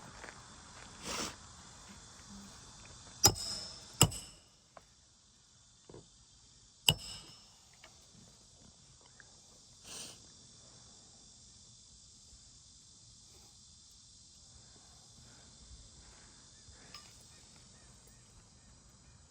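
Hammer striking a roof snake tool, driving roofing nails to fasten a replacement laminate shingle: three sharp strikes with softer knocks around them. Insects drone steadily in the background.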